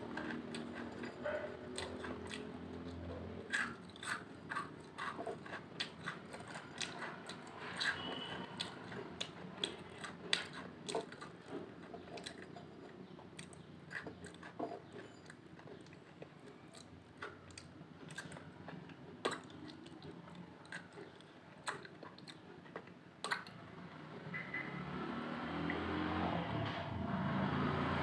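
Close-up eating of Lay's potato chips: biting and chewing with irregular sharp crunches, coming thick and fast at first and thinning out after about halfway.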